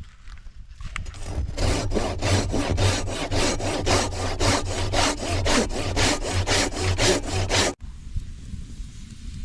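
Hand saw cutting wood in quick back-and-forth strokes, about four a second, stopping abruptly about eight seconds in.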